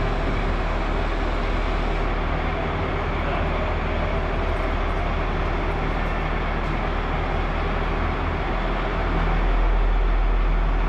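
Steady machinery running with a low hum under a wash of noise, growing a little louder near the end.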